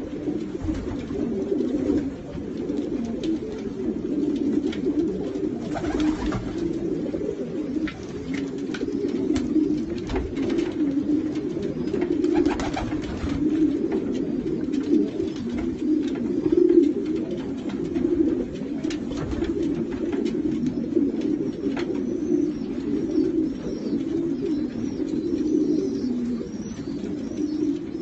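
Many racing pigeons cooing together in a loft, a dense continuous chorus of low coos, with scattered short clicks and scuffs.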